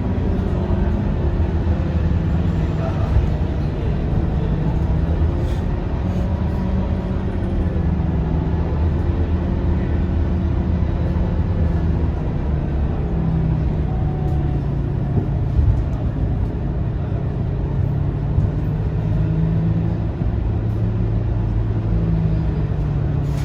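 Scania K230UB bus's five-cylinder diesel engine running steadily under way, a low drone that shifts in pitch a little as the bus speeds up and eases off, over road noise.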